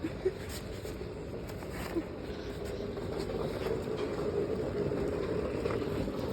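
Steady engine hum from a passing vehicle, growing louder about halfway through, with a few short high squeaks in the first two seconds.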